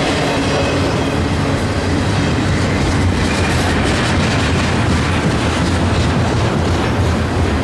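Freight train cars rolling past on the rails, a loud steady rumble of steel wheels on track.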